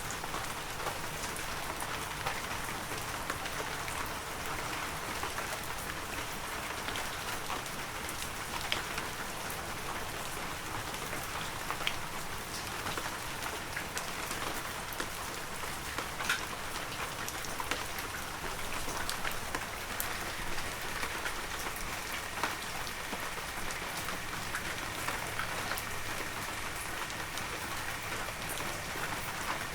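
Heavy rain falling steadily, a dense hiss with many sharp drop ticks scattered through it.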